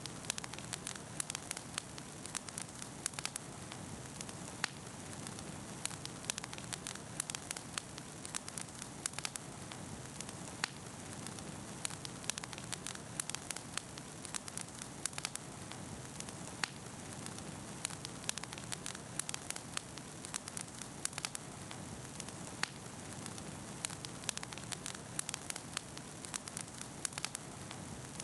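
Wood campfire crackling steadily, with many sharp irregular pops and snaps over a constant hiss of burning.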